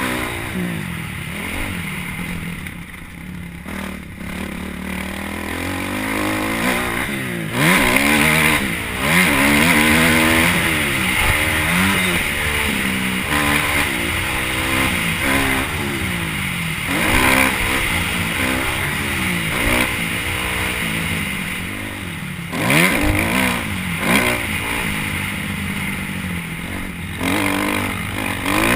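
Motocross bike engine revving up and down over and over as the throttle is opened and closed, its pitch rising and falling every second or two.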